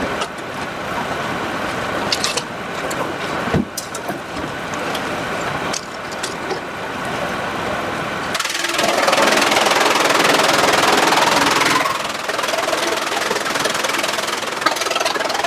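Sawmill machinery running, with a sharp knock about three and a half seconds in and a louder, rushing stretch from about eight to twelve seconds in.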